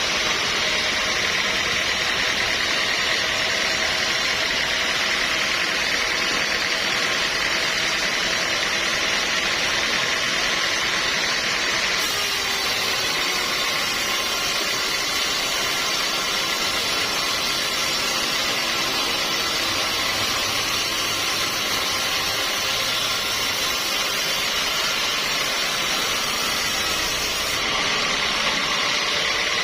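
Sawmill machinery running steadily, a continuous mechanical drone and hiss, with a slight change in tone about twelve seconds in.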